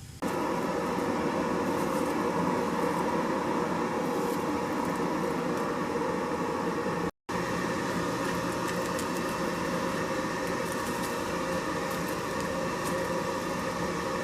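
Steady machine noise with a hum of several level tones, cut off by a brief dropout about seven seconds in.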